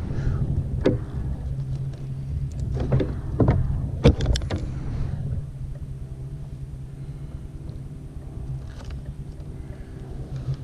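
Several sharp knocks and thumps on a kayak as a freshly caught sheepshead is handled, clustered in the first half. A steady low drone runs underneath, and faint steady tones join it in the second half.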